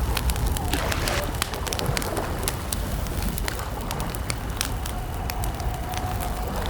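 Campfire crackling, with frequent sharp pops and snaps over a steady low rumble of burning wood. In the second half a faint, long, wavering call sounds at one pitch.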